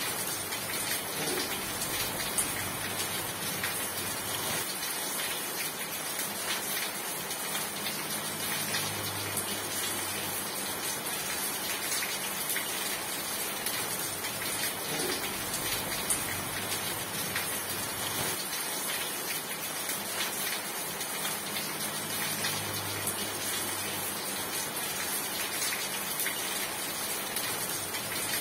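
Steady heavy rain falling, a dense even hiss with many small drop ticks on a surface.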